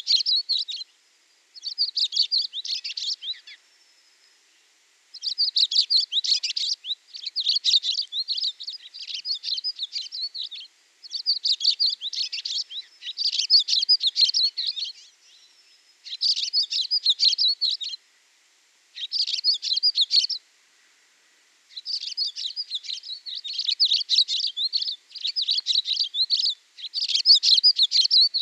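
Songbird singing: short phrases of rapid, high chirps, one after another with brief pauses between.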